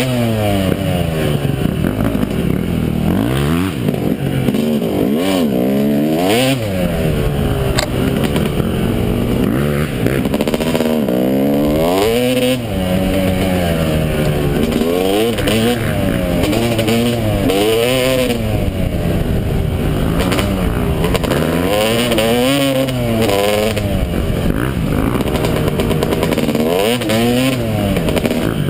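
Yamaha YZ250 two-stroke dirt bike engine being ridden hard, its pitch rising and falling over and over as the throttle is opened and closed.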